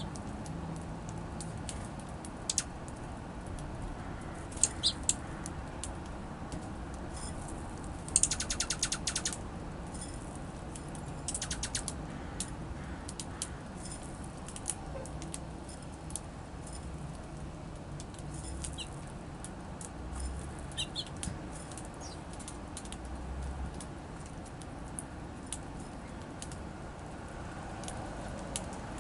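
Small songbirds at a feeder: a few short high chirps now and then, and two bursts of rapid fluttering wingbeats about a third of the way in, over a steady low background hiss.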